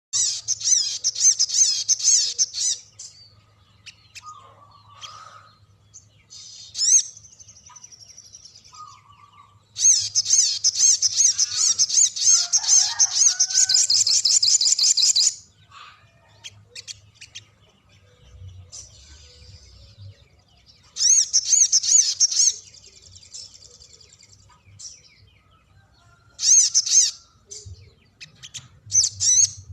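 A sogon (ruby-cheeked sunbird) singing long, high, rapid rolling trills in several bouts; the longest runs about five seconds, from about ten seconds in. Short chirps fall between the bouts.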